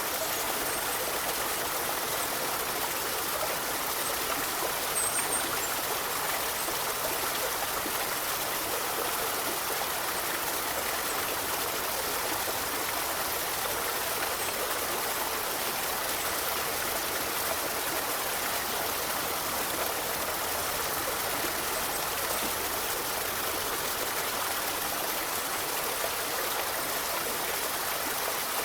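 Forest river flowing, a steady, even rush of running water without a break.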